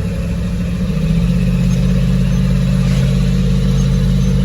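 Truck engine and road noise heard from inside the cab: a steady low drone that rises in pitch and grows louder about a second in as the truck speeds up, then holds steady.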